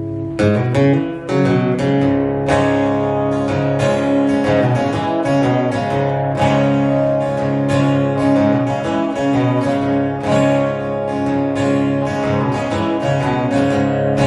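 Acoustic guitar strumming chords in a steady rhythm, with no singing. A held chord gives way to the strumming about half a second in.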